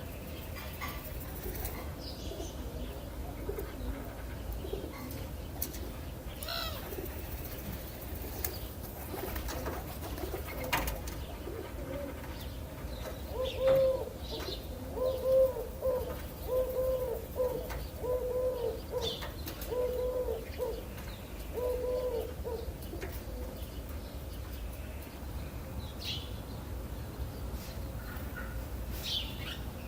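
A dove cooing, about seven low hooting coos evenly spaced over nine seconds in the middle, with small birds chirping now and then throughout.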